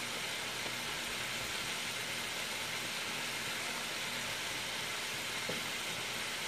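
Chicken wings deep-frying in hot grease: a steady sizzling hiss.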